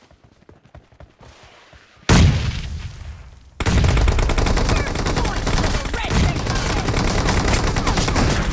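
Shooter-game sound effects: faint ticking, then a sudden loud boom about two seconds in that dies away, and from about three and a half seconds a continuous rapid rattle of automatic gunfire.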